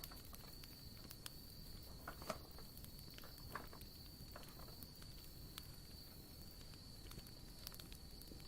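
Wood campfire crackling faintly, with scattered sharp pops, the loudest a little over two seconds in. A steady high insect trill runs underneath.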